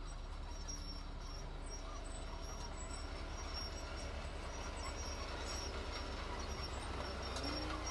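Heavy diesel earthmoving machinery running steadily with a low throbbing rumble, and faint high-pitched chirping over it.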